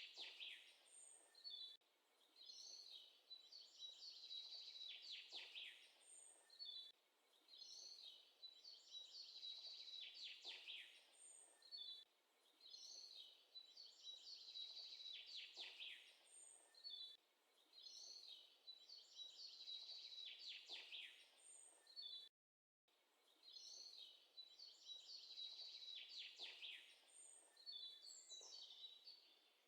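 Faint bird calling in the background, a short high chirping phrase repeated over and over every second or two.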